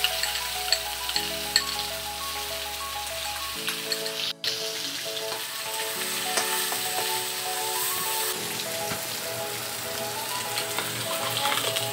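Wet onion, garlic and chilli paste sizzling and crackling as it fries in hot oil in a steel kadai, stirred with a metal spatula. Background music plays underneath.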